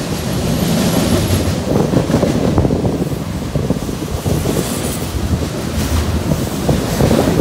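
Freight train of tank cars and covered hoppers rolling past: a steady rumble of steel wheels on rail, with many irregular clanks and clicks as the cars go over the track.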